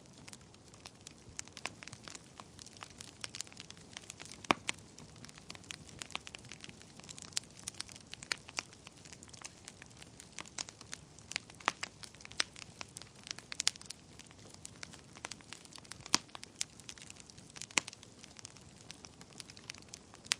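Wood fire burning in a fireplace, crackling and popping: irregular sharp snaps, several a second, over a faint steady hiss, with a few louder pops about four seconds in and near the end.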